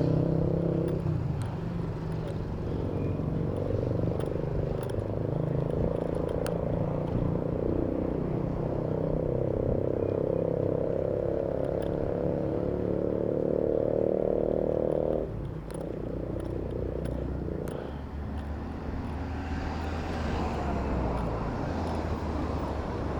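City road traffic with a motor vehicle engine running close by, a steady hum that cuts off suddenly about fifteen seconds in, over a continuous low rumble of other traffic.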